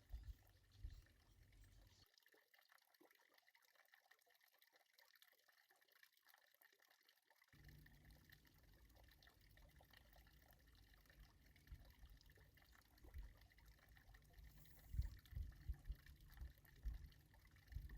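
Near silence, with a faint steady background and a few soft, low knocks in the last few seconds.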